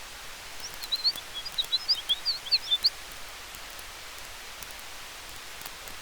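Campfire burning with a steady hiss and faint scattered crackles, under wind in the trees. About half a second in, a rapid run of short high chirps, like a bird twittering, lasts about two seconds and stands out above the fire.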